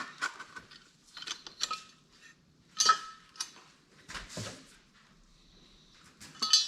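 Scattered metallic clinks and taps of hand tools and small parts while the muffler fasteners are fitted back onto a Stihl 028 chainsaw, with a sharper clink about three seconds in.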